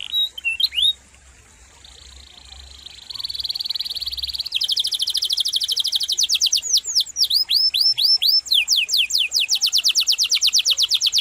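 Canary singing a long rolling song: rapid high trills, a softer buzzing roll, a run of falling whistled sweeps, then another fast trill, with a brief pause about a second in.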